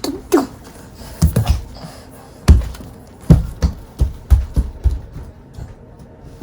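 A series of irregular knocks and thumps, about a dozen, coming closer together in the second half.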